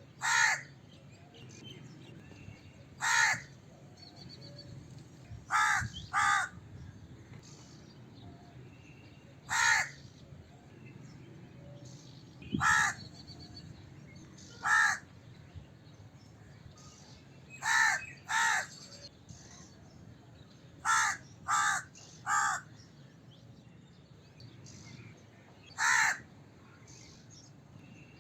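Crow cawing: about thirteen short, harsh caws at irregular intervals, some single and some in quick pairs, with a run of three a little past the middle, over faint background ambience.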